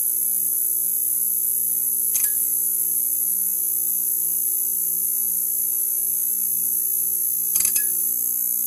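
Neon sign buzzing: a steady electrical hum under a loud high-pitched hiss, with a brief crackle about two seconds in and a few quick crackles near the end.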